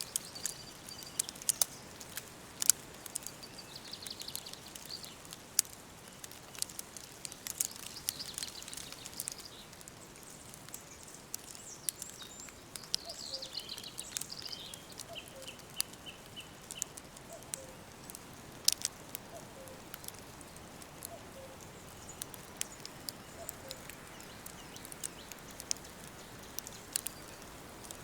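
A wood fire crackling, with frequent sharp pops, while songbirds sing in the background. About a third of the way in, one bird gives a falling run of notes that ends in a rapid trill. A faint low call repeats about once a second through the middle.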